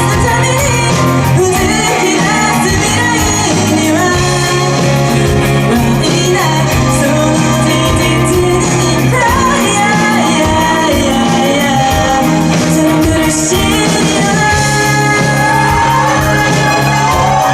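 Live rock band of vocals, two electric guitars, bass, two keyboards and drums playing a J-pop song, with a lead singer's voice over the full band.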